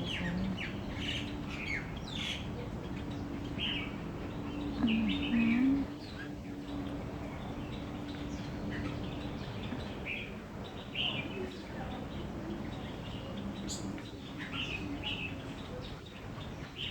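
Many small birds chirping and tweeting, with short high calls overlapping throughout. A steady low hum runs under them, and a louder low sound comes about five seconds in.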